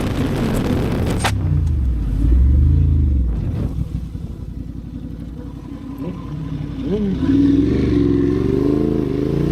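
Motorcycle engine running, its revs swelling up and down, then easing off before rising steadily again as it accelerates toward the end.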